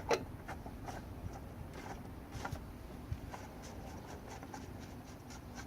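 Plastic oil filter cap with a new cartridge filter being set into the engine's filter housing and turned in by hand: scattered light clicks and scraping, with a sharper click just at the start.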